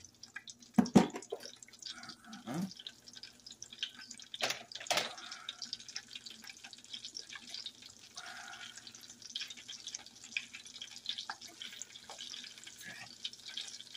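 Chicken wings frying in peanut oil in a cast-iron skillet: a steady sizzle of fine crackles as the wings start to "talk". A few louder knocks stand out, the loudest about a second in.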